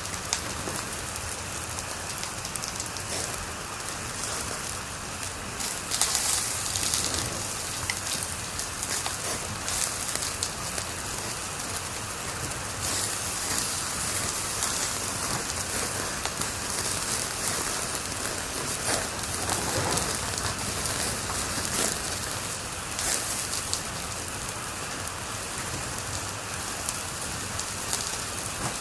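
Wood fire crackling in a fireplace: a steady hiss of dense small crackles and pops, with a louder flurry of crackling about six seconds in.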